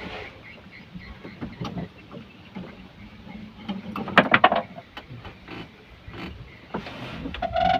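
Knocks and clatter from a small fishing boat and the gear in it, with a quick run of sharp clacks about four seconds in and a short squeak near the end.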